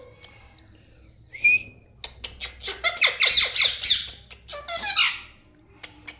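Ringneck parrot giving one short high note, then a rapid run of harsh, chattering squawks lasting about three seconds. Near the end a series of quick, sharp clicks begins.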